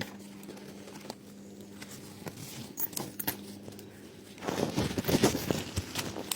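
Mosko Moto Reckless 80 soft motorcycle luggage being handled and pulled off the bike: a few light clicks, then a louder spell of fabric rustling and strap and buckle clatter near the end.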